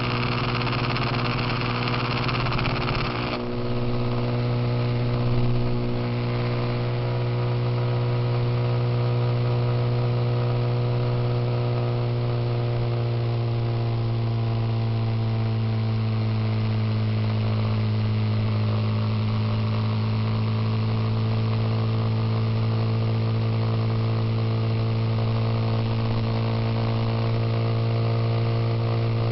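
Suzuki Intruder motorcycle engine running at a steady pace, heard from on board, with a rushing wind-like hiss that cuts off abruptly about three seconds in. The engine note sags slightly partway through, then holds steady.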